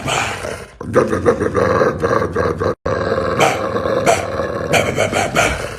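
Dog growling and snarling loudly and almost without a break, baring its teeth on command. It dips briefly about three-quarters of a second in and cuts out for an instant just before three seconds.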